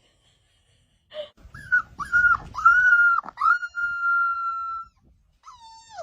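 A puppy whining in a run of high-pitched cries, each dipping in pitch. The last is drawn out for over a second, and a shorter falling whine follows near the end.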